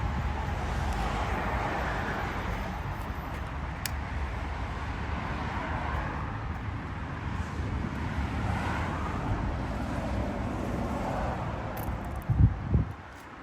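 Road vehicle noise with wind on the microphone, swelling and fading several times as vehicles pass. Two heavy thumps come near the end.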